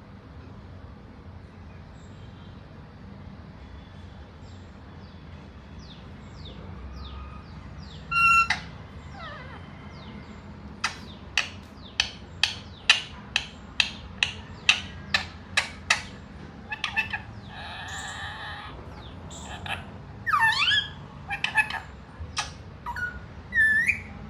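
Pet parrot calling: faint chirps at first, then a loud squawk about eight seconds in, followed by a run of sharp calls at about two a second, a longer call, and gliding calls near the end.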